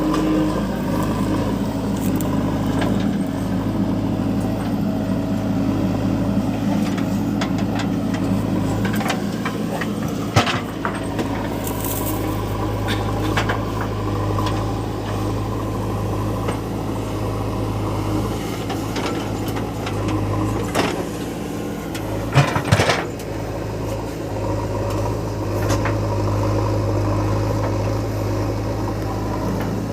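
Heavy diesel engine running steadily under work, with a few short metallic knocks, one about a third of the way in and a quick cluster later on.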